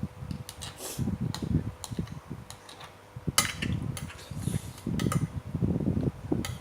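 Close-up chewing of seafood papaya salad with salted crab: irregular wet chewing sounds every half second or so, with sharp clicks and crackles from the crab shell, the loudest about a third of the way in.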